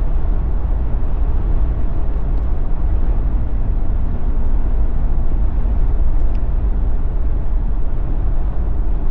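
Jeep Wrangler driving at highway speed: a steady, low-heavy rush of tyre and road noise with the engine running under it.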